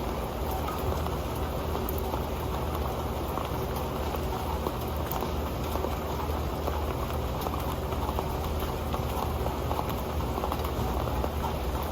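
Rain falling steadily on an old pan, a dense, even patter of drops.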